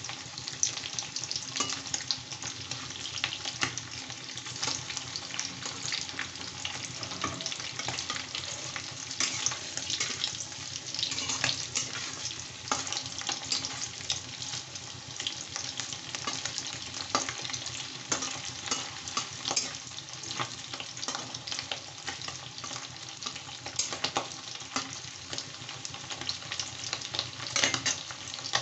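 Paneer cubes sizzling and crackling in hot mustard oil in a wok, with a steady run of small pops. A metal spatula scrapes the pan at times as the pieces are stirred.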